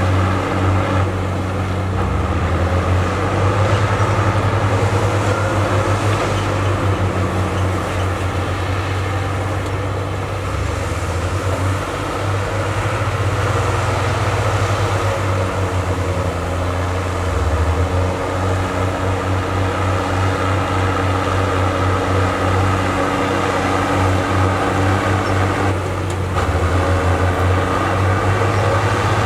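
Heavy diesel earthmoving machinery running steadily with a deep, pulsing engine drone that shifts in pitch and load a few times.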